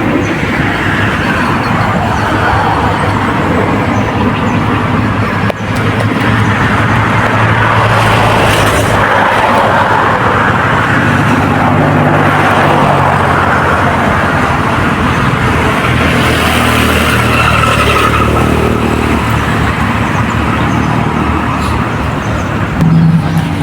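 Road traffic going by: a continuous rush of vehicles that swells and fades as they pass, over a steady low engine hum.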